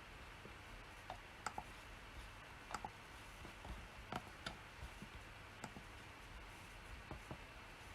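Scattered, irregular single clicks from working at a computer, about fifteen spread unevenly over eight seconds rather than a run of fast typing, over a faint steady hiss.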